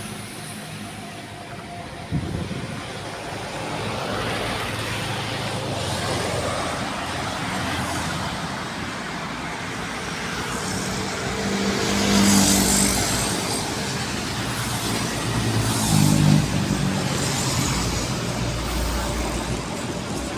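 Mitsubishi Canter trucks running along in convoy: steady engine and road noise, swelling louder about twelve and again about sixteen seconds in as trucks pass close by.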